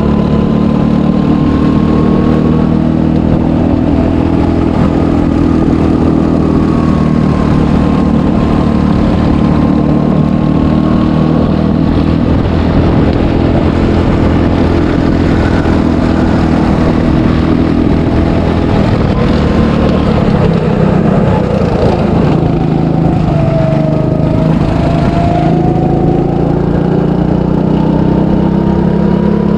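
300cc go-kart engine running at speed, heard close up, holding a fairly steady pitch. A little past the middle it eases off and then climbs again, as when slowing for a corner and accelerating out.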